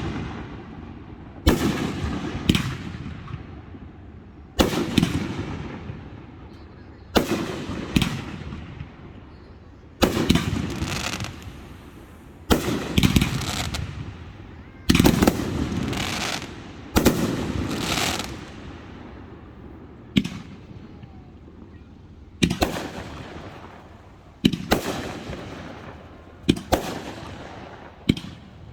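Fireworks display: shells bursting with a sharp boom every second or two, some in quick pairs, each boom trailing off in a fading crackle and rumble.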